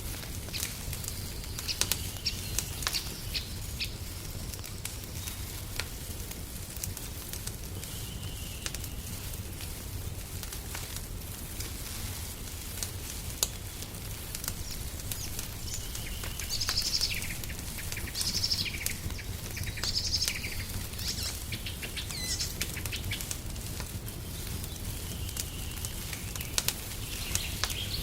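Wood fire crackling with sharp, irregular pops over a low steady rumble, while small birds chirp at intervals, in a busy cluster of short calls past the middle.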